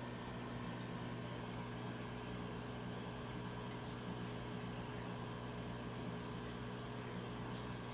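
Steady hum of aquarium equipment, with a faint even water hiss from the filter and pump.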